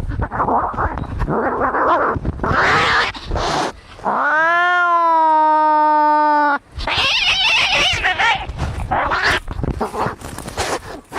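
Cats fighting: harsh hissing and spitting, broken about four seconds in by one long yowl that rises and then holds for about two seconds before cutting off, then more hissing.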